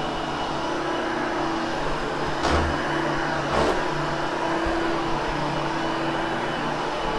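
Hoover HushTone vacuum cleaner running steadily as it grooms freshly cleaned carpet, with two brief louder swells about a second apart partway through.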